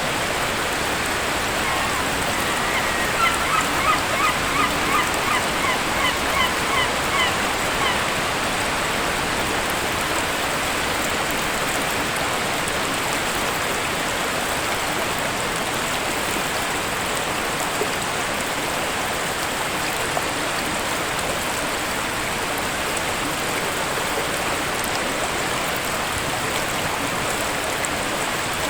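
Steady rushing of a waterfall. A few seconds in, a bird gives a quick run of about a dozen short, honking calls lasting about five seconds.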